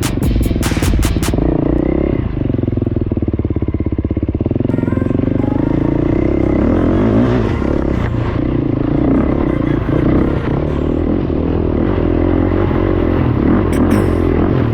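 Off-road vehicle engine running, its pitch rising and falling with the throttle. Music with a beat plays over it for about the first second.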